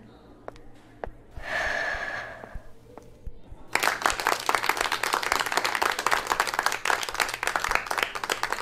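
A brief vocal sound about a second and a half in, then a group clapping from about four seconds in, many hands at once in steady applause.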